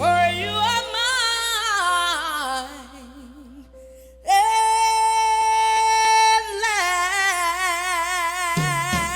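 Soul-style female lead vocal with little accompaniment: a descending run of quick ornamented notes, a short quieter stretch, then a long held note that breaks into wide vibrato.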